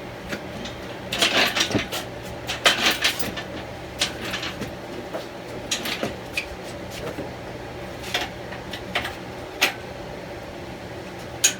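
Irregular metal clanks, knocks and rattles, some in quick clusters, as a heavy engine on a wheeled stand is pushed and shifted in a pickup bed.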